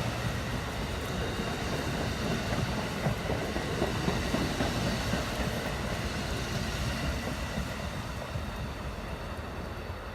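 A train rolling past, its wheels rattling and clattering on the rails, the sound slowly fading over the last few seconds as it moves away.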